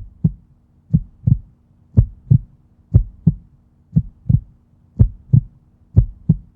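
Heartbeat sound effect: paired low lub-dub thumps, about one pair a second, over a faint steady hum.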